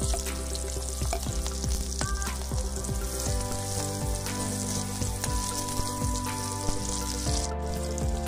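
Sliced onions and chillies sizzling in hot oil in a metal wok, stirred with a spatula that scrapes and clicks against the pan.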